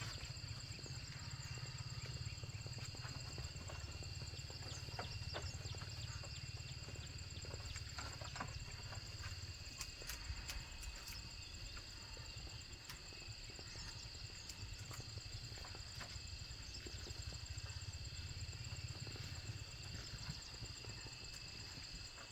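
A steady, high-pitched insect drone fills the forest air, with scattered light knocks and clicks over a low rumble.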